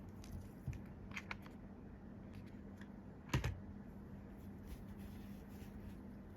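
Scattered light clicks and taps of a plastic puzzle or its packaging being handled, with one louder clack about three seconds in.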